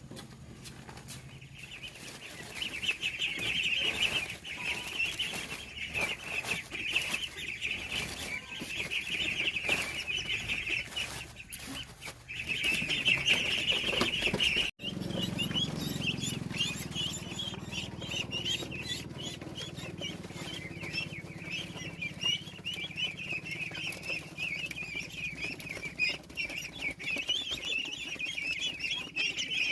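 A crowd of ducklings peeping nonstop, many high calls overlapping, with scattered knocks and handling clicks. About halfway through the sound drops out for an instant, and a low hum runs under the peeping afterwards.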